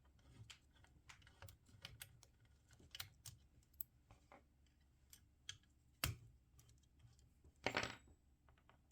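Faint, irregular clicks and taps of a hand tool and small metal parts being handled on a laser engraver's frame while part of its power supply is loosened, with a sharper knock about six seconds in and a brief scrape near the end.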